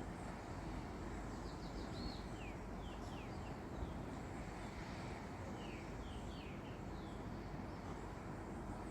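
Birds chirping: many short, quick calls sweeping in pitch, over a steady low background rush.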